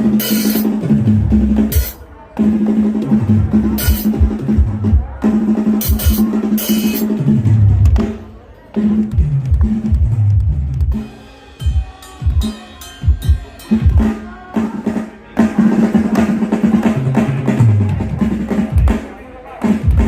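Drum kit played during a band sound check, with kick drum and tom strokes under cymbal crashes. The playing breaks off briefly several times, and there is a stretch of scattered single hits about halfway through.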